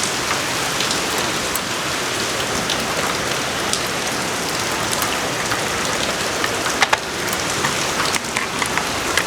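Steady rain falling, an even continuous hiss, with a few sharp ticks of drops or small knocks, the clearest about seven seconds in.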